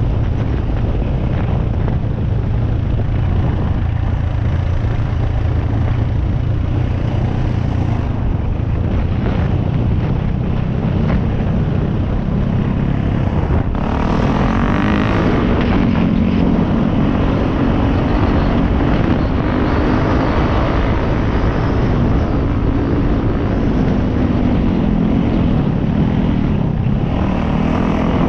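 Dirt bike engine running while riding a trail, with wind noise over it. About halfway through, the engine note gets louder and climbs in pitch as the throttle opens, then rises and falls with the throttle.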